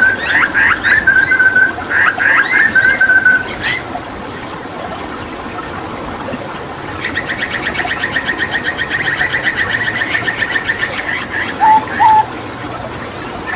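Hooded butcherbird singing: a burst of whistled notes and rising sweeps, then a fast, even rattling series of notes lasting about four seconds, and two short low notes near the end. A steady wash of running water sits under it throughout.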